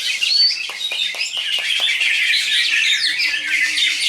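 Several cucak ijo (greater green leafbirds) singing at once: a dense, overlapping chorus of rapid chirps and whistles.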